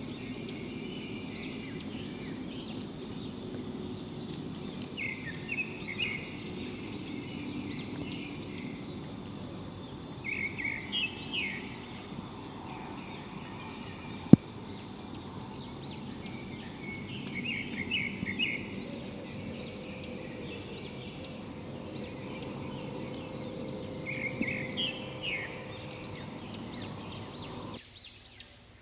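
Rainforest birds calling: bursts of quick, rising chirps repeated every six or seven seconds over a steady low background rumble. A single sharp click about halfway through is the loudest moment, and the ambience drops away just before the end.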